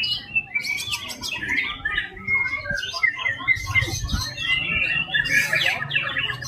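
White-rumped shama (murai batu) singing a rapid, varied run of whistles, trills and chirps without a break, over a steady low hum.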